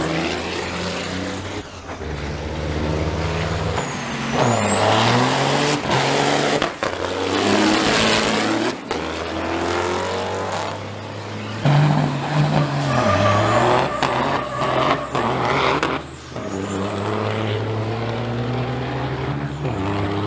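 Diesel engines of big-rig semi trucks running hard under load, the engine note dipping and climbing again twice.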